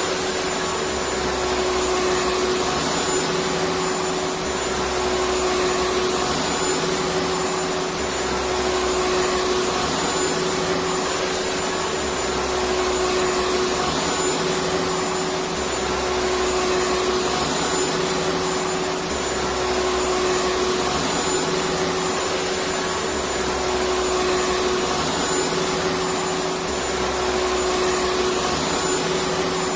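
Vacuum cleaner motor running steadily: a continuous whooshing whir with a steady hum, and a low rumble that swells and fades about every two seconds.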